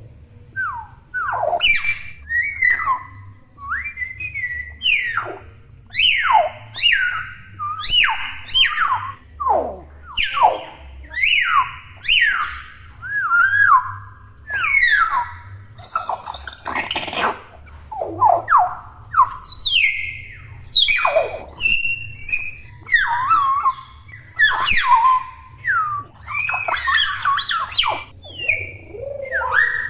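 Young hill myna calling non-stop: a rapid string of loud whistles and chattering calls, many sliding steeply up or down in pitch, one or two a second with hardly a pause.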